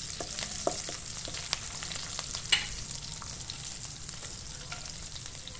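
Green chillies and ginger frying in hot ghee in a karahi: a steady sizzle with scattered crackles, while a wooden spatula stirs them around the pan. One louder click comes about two and a half seconds in.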